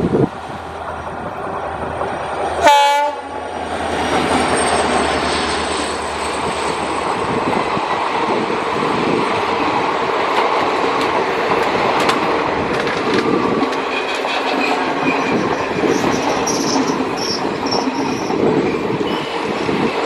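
Express train's horn sounding one short blast about three seconds in, followed by the train passing close by with a steady rumble and wheels clattering over the rail joints.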